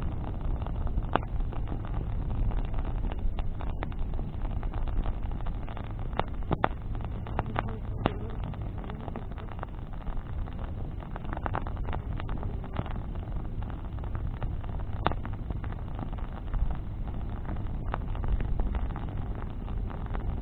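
Wood bonfire burning, with irregular sharp crackles and pops from the burning branches over a steady low rumble.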